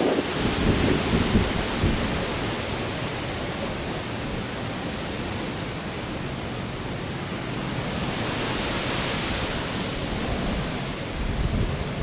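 Strong gusting wind buffeting the microphone in irregular low rumbles at the start and again near the end, over a steady rushing noise that swells about eight to ten seconds in.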